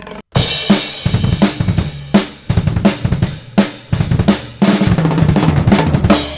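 Drum kit solo: rapid fills of snare and bass drum with cymbal and hi-hat hits, ending on a cymbal crash.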